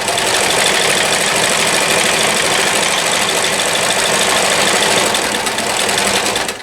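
New Home Model 108 sewing machine running fast while sewing a zigzag stitch: a steady motor hum with rapid, even needle clatter.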